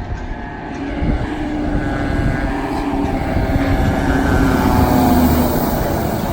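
Fire engine driving past on an emergency response, its engine noise swelling to a peak about five seconds in and then falling away, with a steady pitched tone running through the middle.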